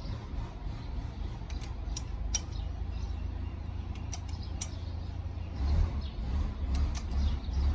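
Workshop handling noise: a few sharp, light clicks and taps, some in quick pairs, over a steady low rumble.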